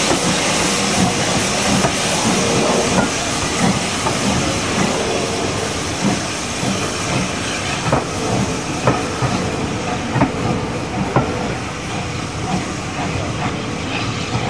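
Steam locomotive hissing steadily, with a faint steady tone in the first half. From about halfway in, irregular clanks and clicks come through, like a train moving slowly over the rail joints.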